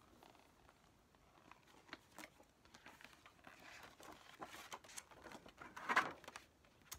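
Faint rustling and light clicks of paper and plastic album packaging being handled, with a louder crinkle about six seconds in.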